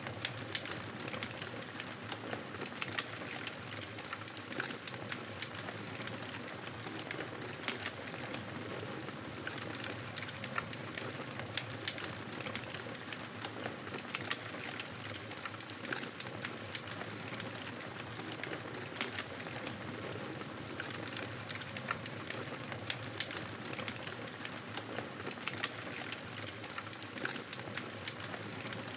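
Wood fire crackling, with frequent small sharp pops and snaps over a steady hiss.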